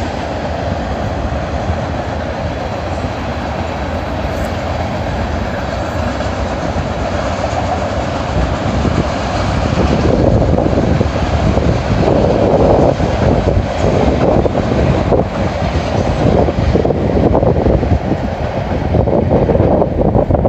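Freight train of tank cars and covered hoppers rolling past, a steady rumble of steel wheels on the rails. About halfway through the sound gets louder and more gusty in the low end.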